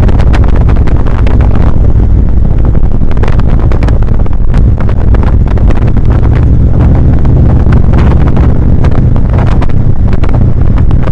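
Motorcycle engine running steadily at road speed, heard while riding, with heavy wind buffeting on the microphone.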